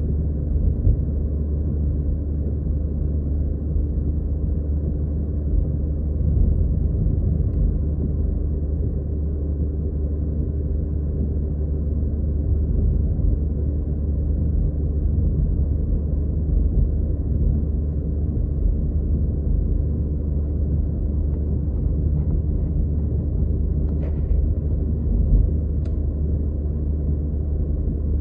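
Steady low road and engine rumble heard inside a car's cabin while driving, with a few faint ticks late on.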